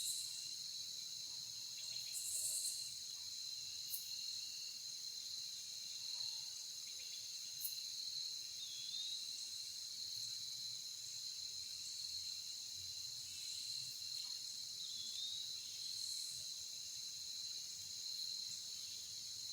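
Steady, high-pitched insect chorus trilling without a break, with a few short high chirps over it.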